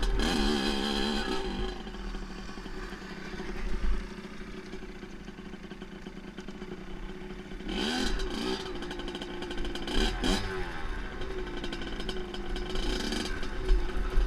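Dirt bike engine running and revving, loud and wavering at first, then falling away, with two sharp revs about eight and ten seconds in and a steady run after.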